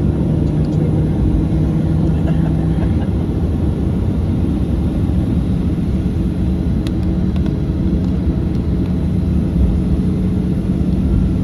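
Cabin noise inside a Boeing 737-800 taxiing, its CFM56-7B engines at low thrust: a steady rumble with a low hum that shifts slightly higher about halfway through.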